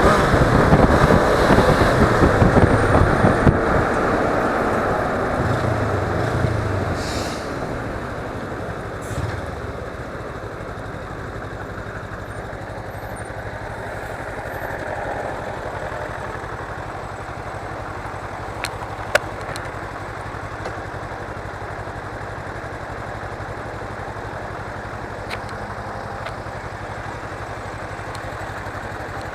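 Wind rush and a Suzuki V-Strom 250's engine fading as the motorcycle slows over the first ten seconds or so, then the bike's parallel-twin engine idling steadily. There is one short sharp click later on.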